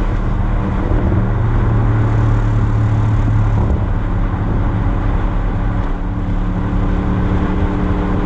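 2020 Audi RS Q8's twin-turbo V8 running through an exhaust with all three resonators deleted, holding a steady low drone at a fairly constant engine speed. It swells louder for a couple of seconds about a second in.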